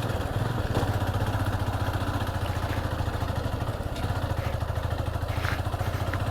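Motorcycle engine running at a steady pace, with a few light clicks and rattles over the top.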